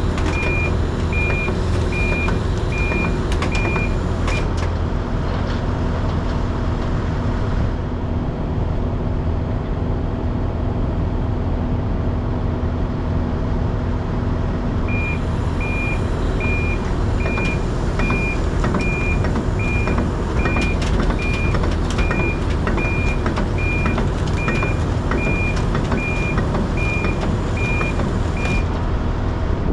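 Heavy truck's diesel engine running steadily, with a back-up alarm beeping a little more than once a second. The beeping stops about four seconds in and starts again about halfway through.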